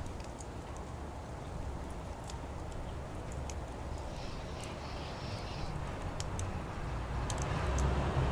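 Wood fire crackling, with scattered sharp pops over a low steady background. A low rumble swells near the end.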